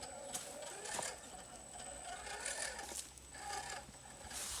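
Radio-controlled car's electric motor and gearbox whirring in short, stop-start bursts as it creeps forward.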